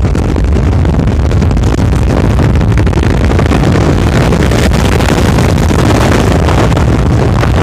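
Steady, loud wind rumble on the microphone mixed with the running noise of a moving vehicle.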